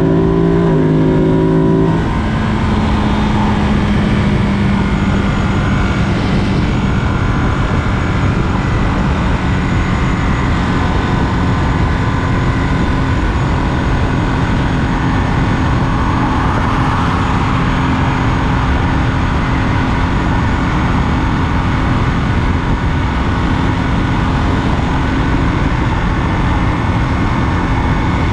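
Ducati Monster 937's 937 cc Testastretta V-twin engine pulling at highway speed, heard from on the bike with heavy wind rush. Its pitch shifts about two seconds in, then holds fairly steady.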